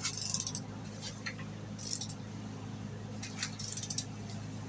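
Metal tools and engine parts clinking in several short bursts, over a steady low hum.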